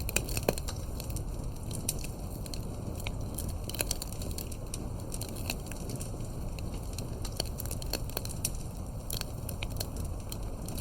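Campfire crackling: firewood burning with sharp pops at irregular intervals over a low, steady rush.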